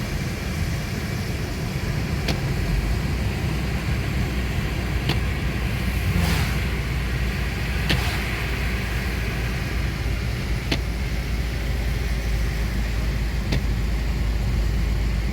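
Car driving, heard from inside the cabin: a steady low road and engine rumble, with a short tick repeating about every three seconds and a brief swell of hiss about six seconds in.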